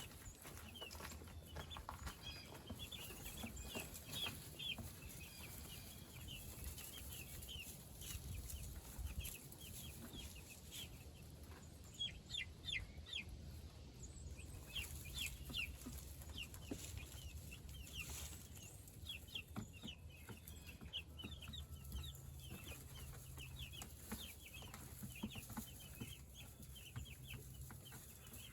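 A flock of young meat chickens peeping constantly, many short high chirps overlapping, over a low steady hum.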